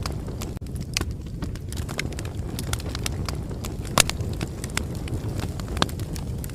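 Bonfire burning: a steady low rumble of flames with irregular sharp crackles and pops of burning wood, one louder pop about two-thirds of the way in.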